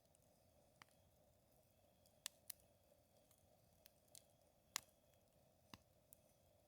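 Wood campfire crackling: sparse, irregular sharp pops and snaps from the burning wood, about eight in all, the loudest a little under five seconds in.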